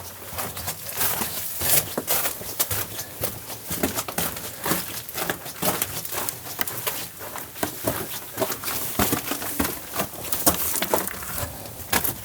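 Footsteps crunching over loose rock and gravel: a dense, uneven run of crunches and small clicks.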